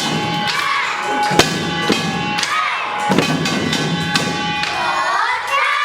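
Korean samul nori percussion played by kindergarten children: separate drum strikes over steady metallic gong ringing, with crowd voices rising near the end.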